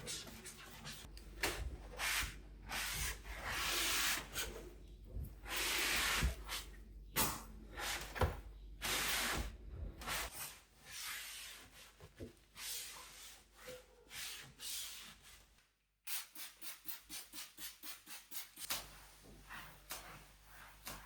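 Scrubbing by hand: long, uneven rubbing strokes over a surface. After a sudden cut, a quicker, even run of short scrubbing strokes follows.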